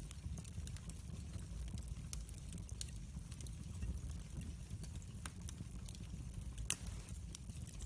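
Open fire burning: a steady low rumble of flames with irregular small crackles and one sharper pop about two-thirds of the way through.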